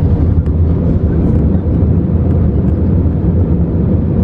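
Steady low rumble of an Airbus A380 airliner heard from inside the passenger cabin, with engine and airflow noise blended into an even roar.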